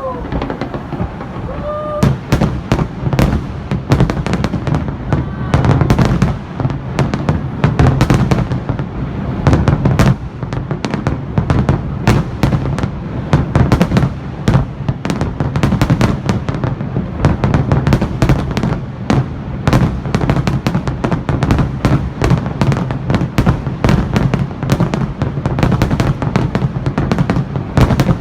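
Fireworks display: a dense, rapid run of bangs and crackles over a continuous low rumble, thickening about two seconds in and keeping up steadily after that.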